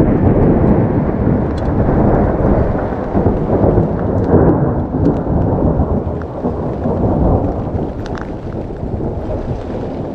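Thunder: a long rolling rumble that swells suddenly and then slowly dies away over about ten seconds.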